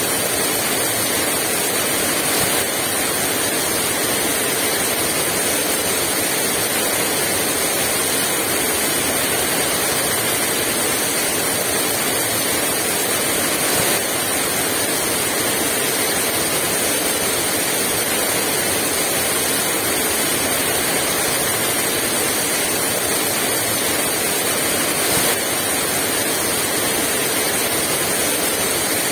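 Heavy rain pouring down steadily, an even dense hiss with no breaks.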